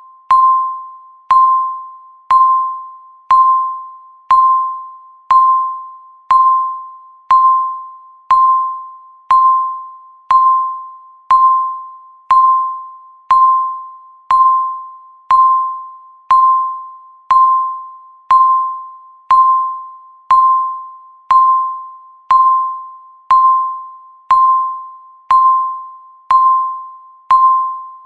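Countdown timer's ticking sound: a short, bell-like electronic ping struck once a second with a sharp click at each onset, each ping fading quickly before the next.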